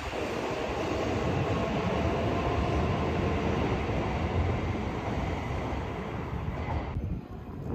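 Shinkansen bullet train moving along the platform: a steady rushing of wheels and air with a faint steady whine. It cuts off abruptly near the end.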